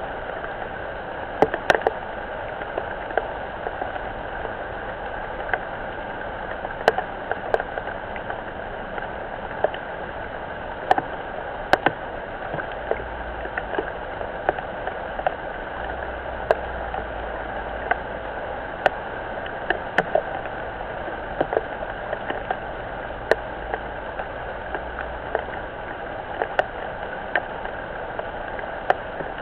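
Steady rain falling on a pond, a continuous hiss broken by irregular sharp ticks of drops striking close by, several every few seconds.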